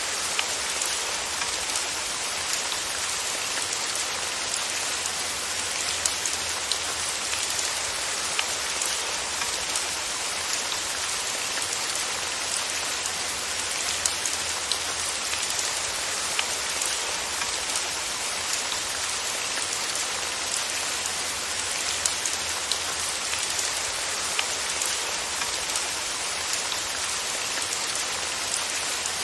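Steady rain falling on a surface, an even hiss with many small, sharp drop ticks scattered through it.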